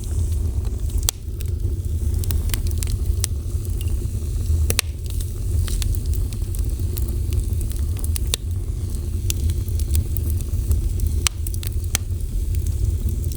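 Fire burning with a steady low rumble and irregular sharp crackles and pops, a few of them louder snaps.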